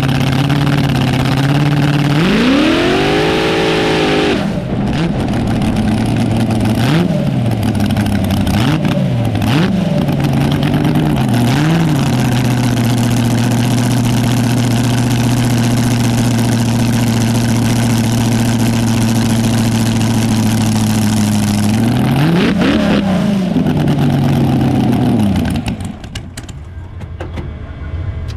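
Front-engine dragster's engine idling, revved hard once about two seconds in, then blipped up and down several times. It settles into a steady idle, revs again near the end, and then falls away.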